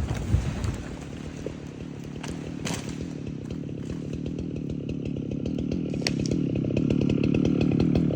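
Chainsaw engine running at a low, steady speed, growing gradually louder toward the end, with a few sharp cracks over it.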